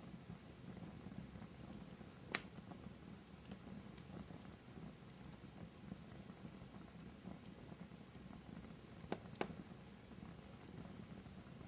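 Fire burning in a fireplace: a faint, steady low rumble with soft crackling throughout, and sharp pops about two seconds in and twice in quick succession about nine seconds in.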